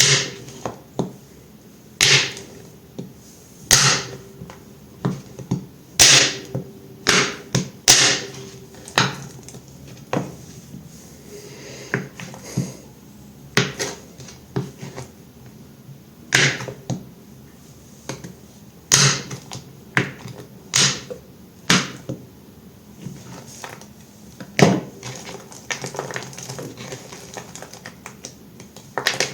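A knife cutting through multicolored bar soap: about twenty short, sharp cuts at an uneven pace, one every second or two.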